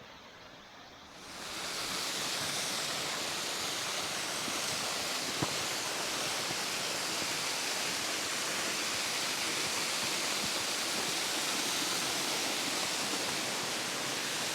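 Waterfall on a moorland beck: steady rushing of falling water that swells in about a second in and holds even, with one small click about five seconds later.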